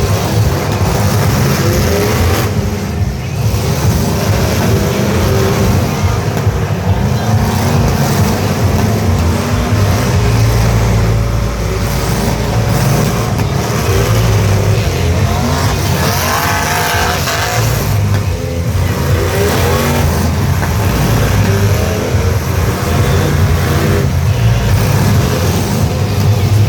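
Truck engines running loud and revving, their pitch rising and falling throughout.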